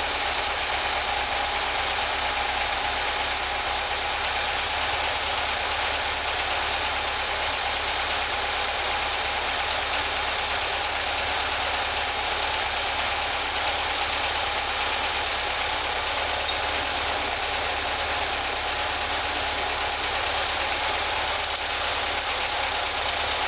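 Custom-built 2110cc air-cooled VW flat-four engine idling steadily while its twin carburettors are adjusted.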